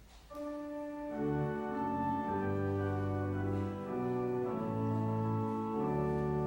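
Church organ playing slow, sustained chords, beginning softly just after the start with bass notes entering about a second in.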